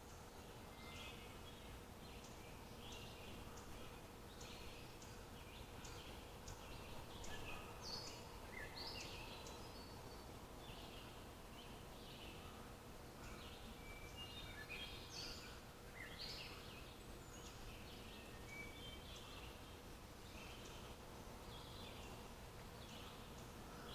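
Several small birds chirping and calling in quick, short notes, scattered throughout over a faint steady hum and background hiss.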